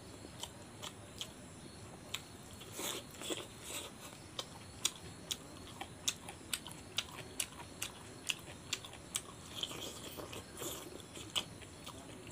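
A person chewing a mouthful of rice and curry with the mouth open, giving short wet smacking clicks about two a second.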